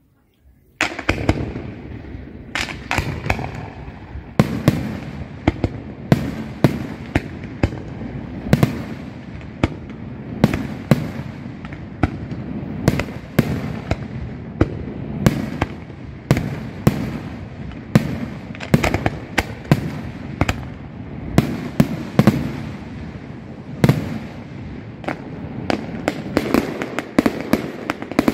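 Fireworks display: after a brief lull, a dense, irregular barrage of sharp bangs, often several a second, over a continuous low rumble of bursts.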